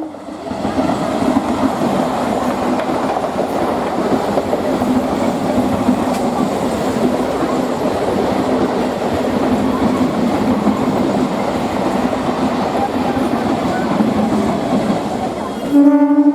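Medha EMU electric local train passing at speed: a steady rumble and rattle of wheels on the rails with a low hum. A horn sounds briefly near the end.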